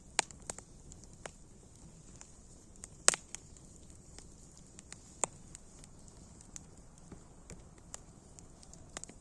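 Wood fire crackling: scattered sharp pops and snaps, the loudest about a quarter second in and about three seconds in, over a faint steady hiss.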